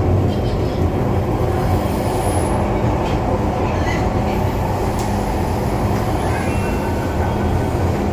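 MTR Disneyland Resort Line M-Train running along the track: a steady low rumble with a constant hum underneath.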